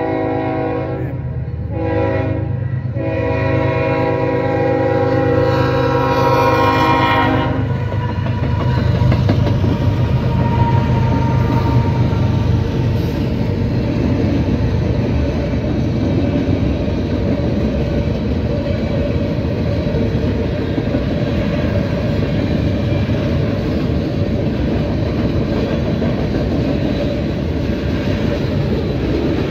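Freight locomotive air horn sounding for a level crossing: two short breaks, then a long blast that stops about seven and a half seconds in, over the rumble of the lead CSX diesel locomotives. After the horn, a long string of freight cars rolls past with steady wheel and rail noise.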